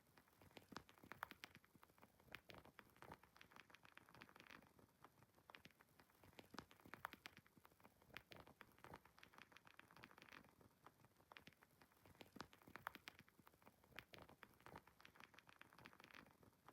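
Faint fireplace fire crackling: irregular sharp pops and snaps of burning wood over a soft hiss.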